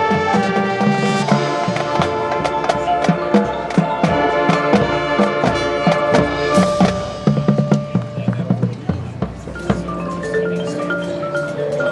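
Marching band playing: brass and percussion with frequent drum hits, thinning about ten seconds in to front-ensemble mallet percussion (marimba and glockenspiel) playing short repeated notes.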